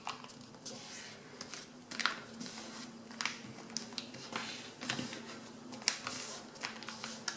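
A sheet of paper rustling and crinkling in short, irregular bursts as it is folded in half and the crease pressed down.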